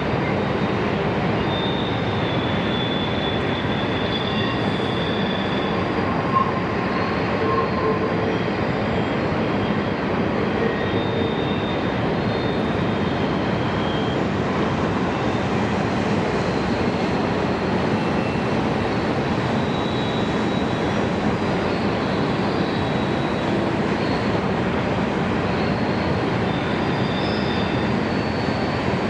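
Freight train's cars rolling past with a steady rumble of wheels on rail, broken by many brief, high wheel squeals.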